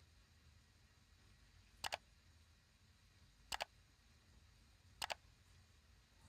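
Three sharp double clicks about a second and a half apart, over near silence.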